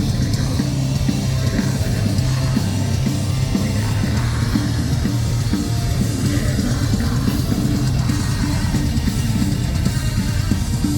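Live metalcore band playing loud, heavily distorted guitars, bass and drum kit, with a dense, steady low end and no breaks.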